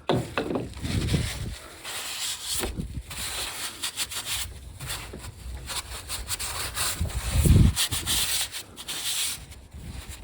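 Irregular rubbing and scraping handling noises, with a dull thump just after the start and another about seven and a half seconds in.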